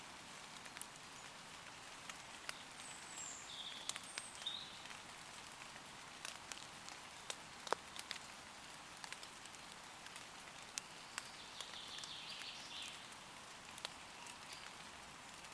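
Light rain pattering on leaves, with scattered close drops ticking sharply over a soft hiss. A few faint, short bird calls come through in the distance, about three to four seconds in and again around twelve seconds.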